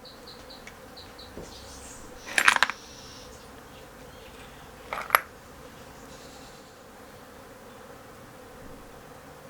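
Small metal objects clattering briefly about two and a half seconds in, then two sharp clicks about five seconds in, over a steady faint hum.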